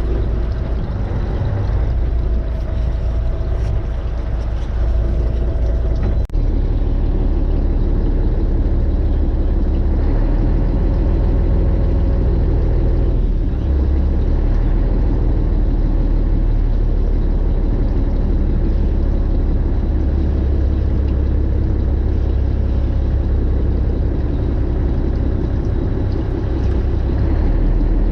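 Fishing boat's engine running steadily, a low drone under a constant rushing hiss. There is a brief click and dropout about six seconds in, after which the drone sits lower.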